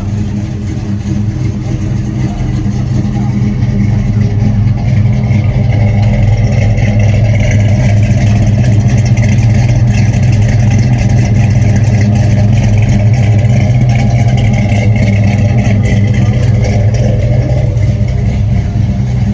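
A loud car engine running steadily at an even speed.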